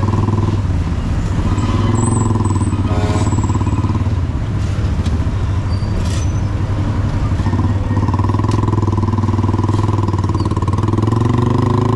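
Motorcycle engine of a tricycle (motorcycle with sidecar) running steadily under way, heard from inside the sidecar, with a few knocks from the ride. The engine pitch climbs near the end as it picks up speed.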